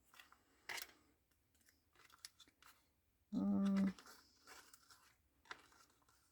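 Paper cutouts being handled and shuffled: scattered light rustles and clicks. A little over three seconds in comes a short, flat hummed 'mm', louder than the rest.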